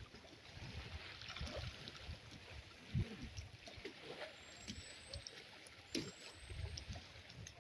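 Faint splashing and trickling of shallow lagoon water, with two soft low thumps, one about three seconds in and one about six seconds in.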